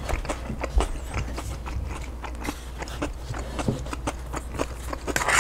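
A person chewing a mouthful of a chicken burrito bowl close to a clip-on microphone: a steady run of wet mouth clicks and smacks, with a brief louder sound near the end.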